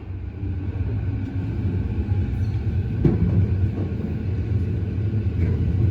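Electric commuter train running on the Uchibo Line: a steady low rumble that slowly grows louder, with a single knock about three seconds in.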